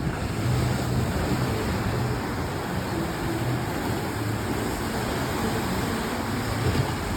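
Steady wash of surf and wind on the microphone with a low rumble underneath, and no firework bursts.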